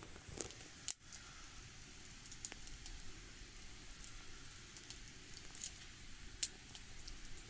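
Wood fire burning in a Snow Peak fire pit with a Flowga secondary-combustion insert: a soft steady hiss with scattered crackles and pops, one sharp pop about a second in.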